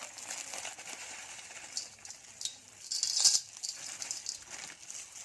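Live snails in their shells being stirred with coarse salt in a container, shells clattering and rattling with a louder scrape about three seconds in.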